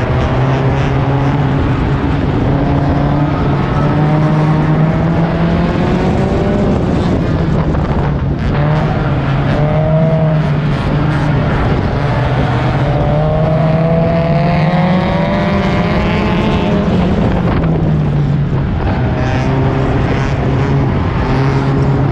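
Four-cylinder race car engine heard from on board, running hard under throttle, its pitch rising and falling as the driver accelerates and lifts, with a long rise in the middle.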